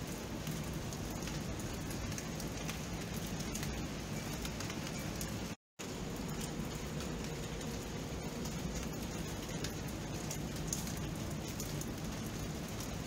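Steady rain falling, a constant hiss with many small drop ticks. The sound cuts out completely for a split second about halfway through.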